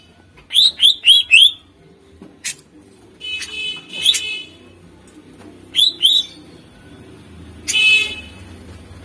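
Greater green leafbird (cucak ijo) singing in separate bursts: four quick, sharp falling notes, then harsh buzzy chattering phrases with two more sharp notes between them.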